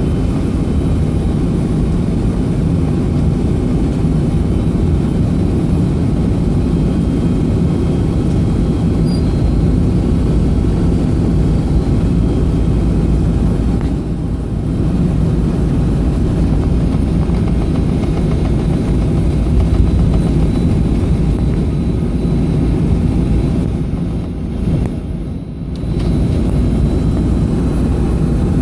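Steady low rumble inside the cabin of a Boeing 757-232, its Pratt & Whitney PW2037 turbofans running at idle thrust before takeoff. The level dips briefly twice, about 14 and 25 seconds in.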